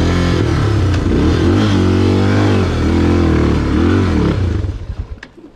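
Trail motorcycle engine revving hard in repeated rising and falling bursts as the bike strains up a steep rutted climb, then dying away about four and a half seconds in.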